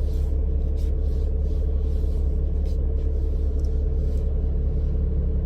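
Kenworth W900 semi's 500-horsepower diesel engine idling, a steady low rumble with a constant hum, heard from inside the cab. A few faint light clicks sound over it.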